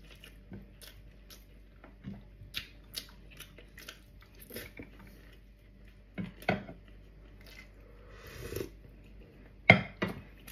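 Chewing and sharp mouth clicks from someone eating beef-trotter stew (balbacua) with rice, in short separate sounds with quiet between. A brief swell comes about two seconds before the end, then the loudest click just after it.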